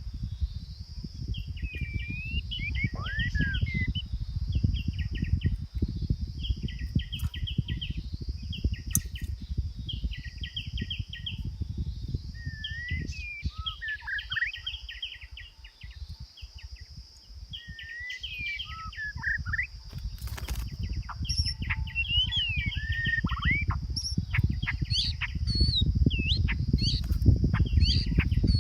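A songbird singing repeated short bursts of rapid chattering notes mixed with slurred whistles, a new phrase every couple of seconds. A steady high-pitched hiss and a low rumbling noise run underneath.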